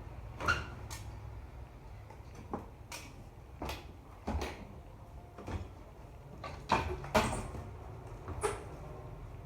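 About a dozen irregular knocks and clunks of household objects being handled and set down while things are put away, over a steady low hum.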